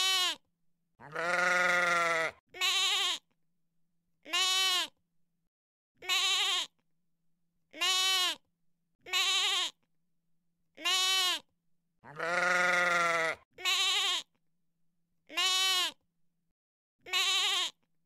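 Sheep bleating: a string of separate quavering calls, roughly one every second and a half, most of them short, with two longer, drawn-out bleats about a second in and again about twelve seconds in.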